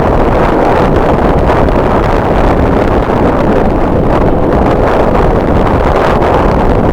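Strong wind buffeting the camera microphone: a loud, steady rushing noise with heavy low rumble.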